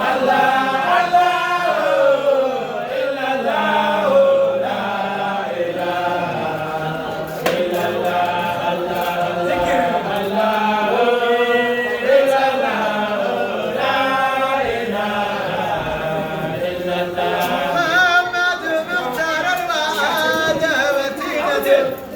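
A group of voices chanting a religious praise song together, the sung line running on without a break.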